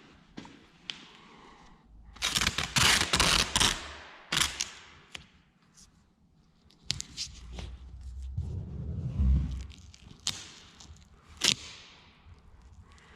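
Masking tape being pulled off the roll with a rasping rip and torn off in sharp snaps, with handling knocks in between.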